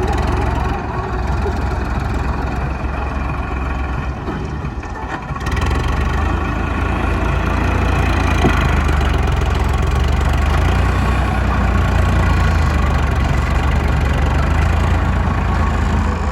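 Tractor engine running steadily, a little louder from about five seconds in.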